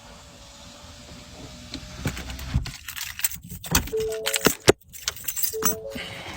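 Keys jangling, rustling and sharp clicks as someone gets out of a car. Includes one loud click about halfway through and a short electronic chime that sounds twice, about a second and a half apart, near the end.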